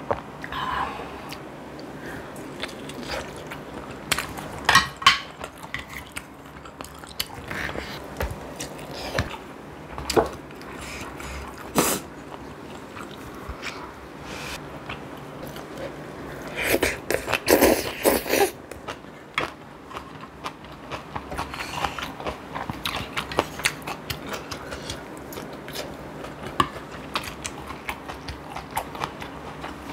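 Close-miked chewing and biting of food, with many sharp little clicks throughout and a louder, denser stretch about two-thirds of the way in.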